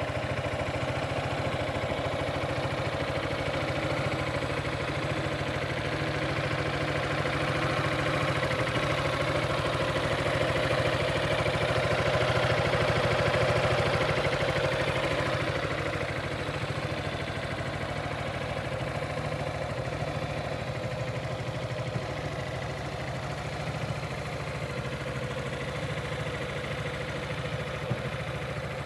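Yamaha XMAX 300 scooter's single-cylinder four-stroke engine idling steadily, a little louder for several seconds in the middle.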